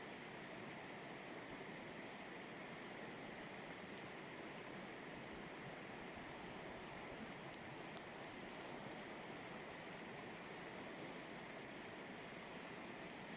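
River rapids rushing steadily, an even, unbroken wash of water noise.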